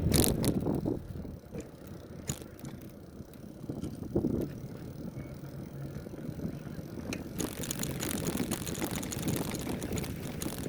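Bicycle ridden along a dirt trail: tyre rumble with the frame rattling and clicking over bumps, and some wind on the microphone. About seven seconds in, a denser crackling from the tyres on the trail surface sets in.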